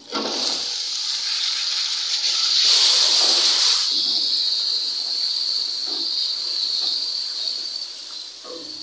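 Diced raw potatoes hit a kadai of hot oil and onion-tomato masala and set off a loud sizzling hiss, with a spatula stirring them in. The sizzle swells about three seconds in, then slowly dies down.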